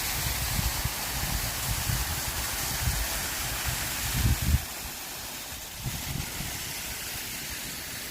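Wind through a bamboo grove, the leaves rustling in a steady hiss, with gusts buffeting the microphone as a low rumble that is strongest about four seconds in.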